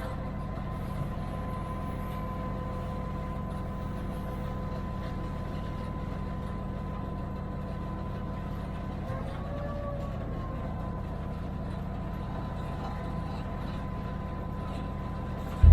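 GP38-2 diesel locomotive heard from inside its cab while running: the EMD 16-cylinder 645 prime mover makes a steady low rumble, with a thin steady whine over it. A faint tone rises and falls briefly about nine seconds in.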